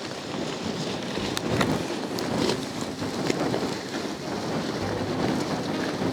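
Strong, gusty wind buffeting the microphone: a rough, rushing noise that rises and falls, with a few faint crackles.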